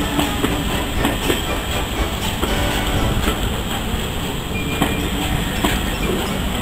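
Railway passenger coaches rolling past, a steady rumble of steel wheels on rail with irregular clicks as the wheels cross the rail joints.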